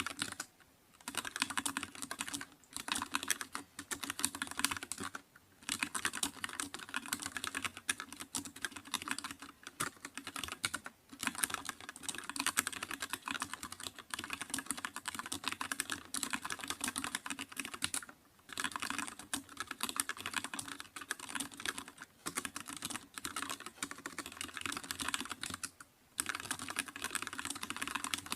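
Fast, continuous typing on a computer keyboard, a dense stream of key clicks broken by several short pauses of under a second.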